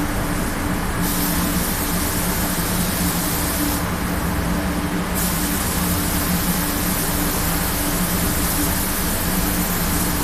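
Compressed-air paint spray gun hissing in two long passes, cutting out briefly between them, over a steady mechanical hum.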